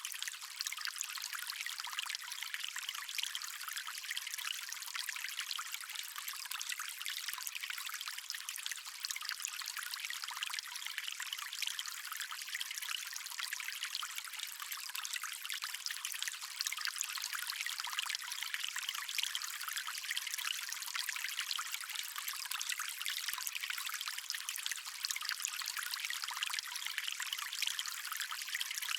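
Running water of a stream, a steady light splashing and trickling with no low rumble, even throughout.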